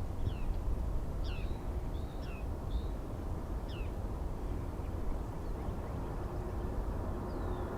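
Small birds chirping: short high calls, each falling in pitch, about half a dozen in the first four seconds and one more near the end. Under them runs a steady low background rumble.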